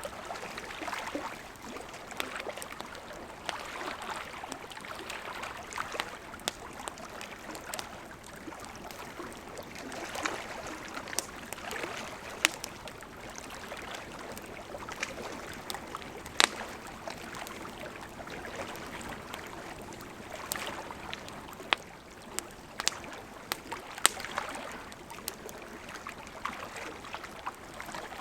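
Campfire crackling, with scattered sharp pops, over the gentle lapping of lake water against the shore.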